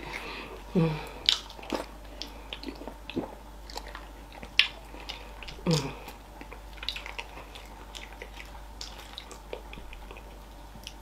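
Close-up eating sounds: wet chewing and lip smacks as fufu and slimy okra soup are eaten by hand, in many short sharp clicks that thin out in the second half. Two short falling hums sound about a second in and near the middle.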